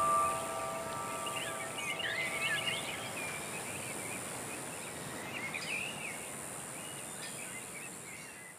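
Small birds chirping in short, scattered calls over a steady outdoor hiss, while the last held piano notes fade out in the first few seconds.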